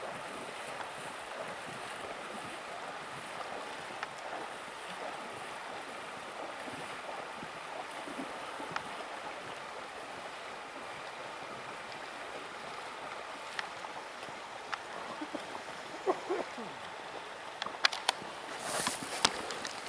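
Steady rush of a taiga river's flowing water. Near the end a few sharp clicks and knocks sound over it.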